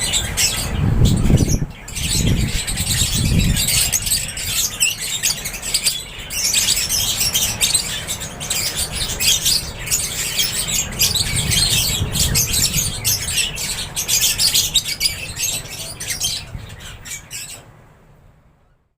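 A flock of lovebirds chirping and squawking continuously in many overlapping calls, with a few low thuds in the first few seconds. The calls cut off near the end.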